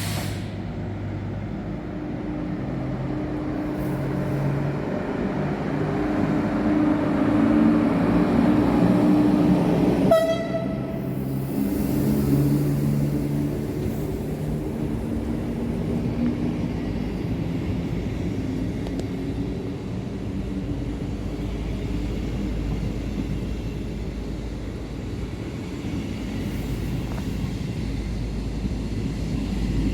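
A train passing close by, its low droning hum building to a peak, with a short horn blast about ten seconds in; the heavy rumble of the train carries on afterward.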